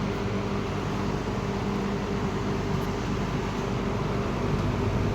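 Late-1960s Eskimo three-speed all-metal box fan running steadily on high speed: an even rush of air over a low motor hum.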